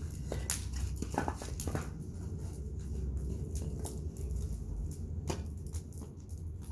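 Wood bonfire burning: irregular sharp pops and crackles over a steady low rumble.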